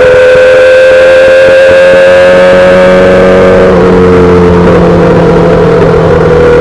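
2008 Yamaha R6's 600 cc inline-four running through a full SC-Project exhaust, heard from the rider's seat at a steady part-throttle cruise. The engine note climbs slowly, then drops slightly about three and a half seconds in and holds steady.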